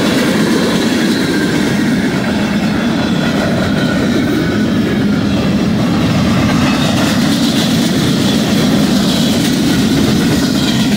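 Freight cars of a BNSF manifest train rolling past close by: a steady rumble of steel wheels on rail, with faint high-pitched ringing tones above it.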